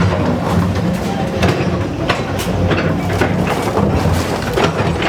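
A running engine's steady low hum, with many irregular knocks and clattering impacts over it.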